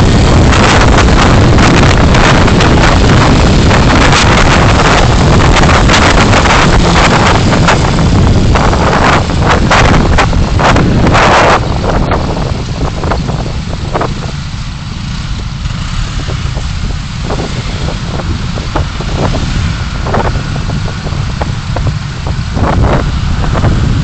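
Road and wind noise of a car driving, picked up by its dashcam microphone: a loud, rushing noise with many short knocks. It drops noticeably about halfway through.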